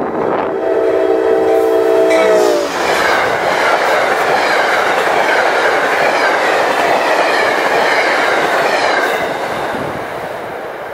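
A GE Genesis P32AC-DM diesel locomotive gives a short horn blast as it passes at speed. The chord drops in pitch as the locomotive goes by, then the rumble and clatter of its passenger coaches rolling past follows and fades toward the end.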